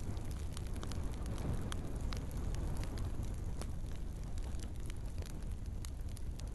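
Wood fire in a fireplace burning, with many sharp, irregular crackles and pops over a steady low rumble of the flames.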